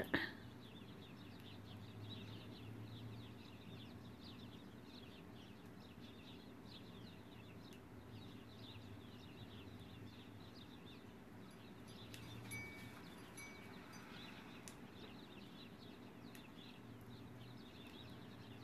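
Faint chirping of small songbirds outside an open window, many short chirps in quick succession over a low steady hum, with a brief louder call about two-thirds of the way in.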